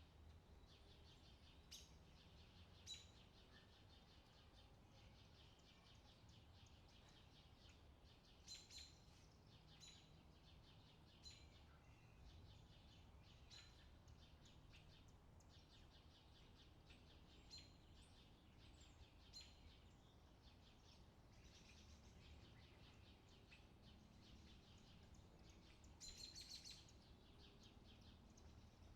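Faint outdoor summer ambience: birds chirping now and then, with a small burst of chirps near the end, over a low steady background rumble.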